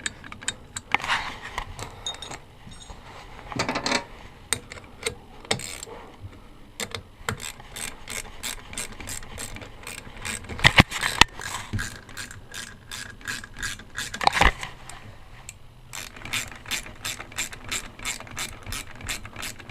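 Hand ratchet wrench clicking in steady runs, about three clicks a second, as bolts are run down, with a couple of louder metal knocks midway.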